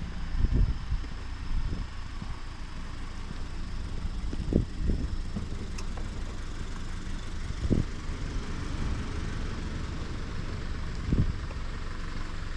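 Wind buffeting a GoPro's microphone: a steady low rumble with a few brief gusting thumps.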